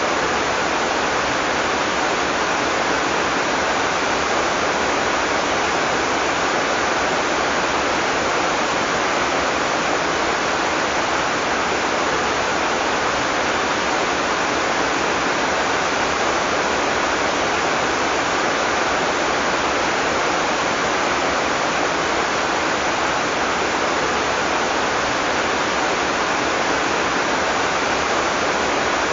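Heavy tropical rain falling steadily as an even, unbroken hiss, with no thunder and no separate drops or events standing out.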